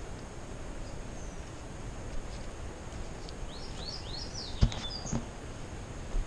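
A bird sings a quick run of four or five short falling notes about three and a half seconds in, over a steady outdoor hiss. Two sharp knocks follow right after, the first the loudest sound here.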